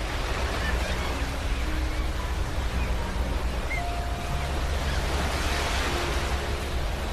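Ocean surf washing in continuously, a steady hiss over a deep rumble, with a wave surging in a little brighter about five seconds in. Faint sustained tones change pitch softly underneath.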